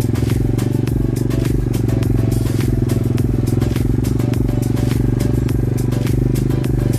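Small single-cylinder pit bike engine running at a steady, unchanging speed, its exhaust pulsing evenly.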